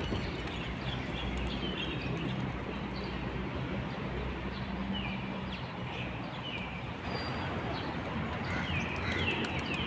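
Small birds chirping in short high notes, in little clusters about halfway through and again near the end, over a steady low outdoor hum.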